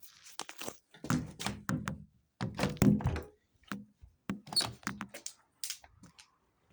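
Irregular clicks, knocks and thuds of hard plastic being handled, with a few heavier thunks in the first half, as the handheld vacuum cleaner is picked up and set up before it is switched on.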